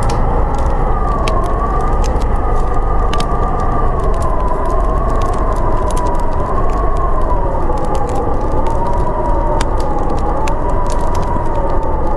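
Howling snowstorm wind: a wavering whistle that slowly rises and falls in pitch over a steady deep rushing. Scattered sharp pops and crackles of a wood fire sound through it.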